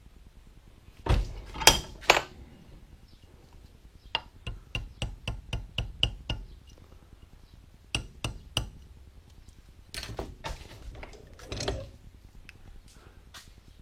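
Steel D-rings and their angle-iron mounts clinking and knocking against each other and the bench as they are handled and set down: three loud knocks about a second in, a fast run of light clinks in the middle, and scattered knocks near the end.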